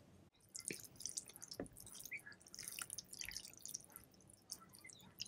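Faint, close-miked wet clicks, smacks and drips of pho noodles and broth, an irregular run of short crackly sounds.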